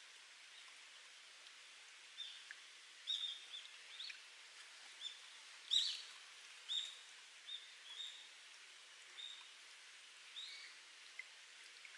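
Spring water trickling and dripping from rock in a steady faint hiss, with a wild bird calling in short high chirps about once a second from about two seconds in.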